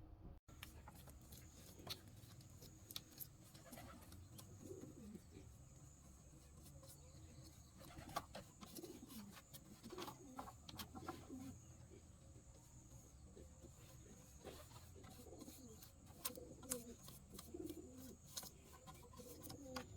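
Faint, repeated low calls of birds, cooing like doves, with scattered sharp clicks and taps over a low steady background hum.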